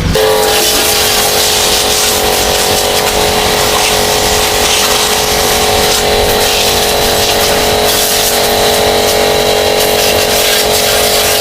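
Small electric pressure washer running steadily, its pump motor humming under the hiss of the water spray.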